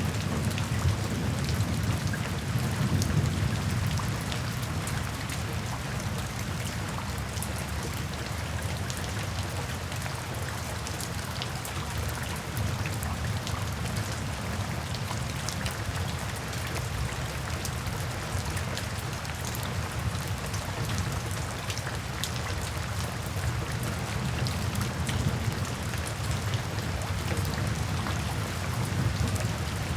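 Steady rain falling, with scattered drops ticking. A low thunder rumble is strongest in the first few seconds and then eases off under the rain.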